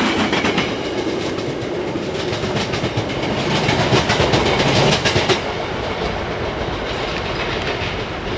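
Metra bilevel commuter cars rolling past on steel rails, their wheels clicking over the rail joints. The clicking stops about five seconds in and the train noise fades as the cab car draws away.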